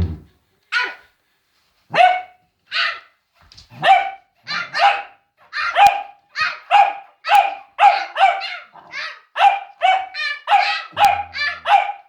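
A Cavalier King Charles spaniel barking over and over, a few spaced barks at first, then quickening to a steady run of about two barks a second.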